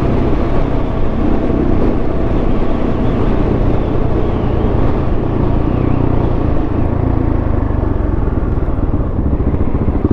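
Adventure motorcycle's big single-cylinder four-stroke engine running steadily while under way, with road noise.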